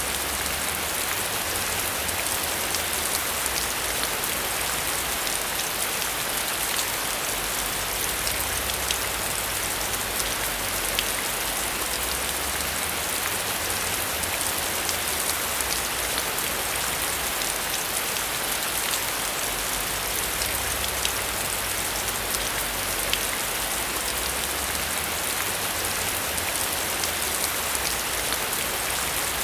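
Heavy rain falling steadily, a dense even hiss with many individual drops ticking sharply through it.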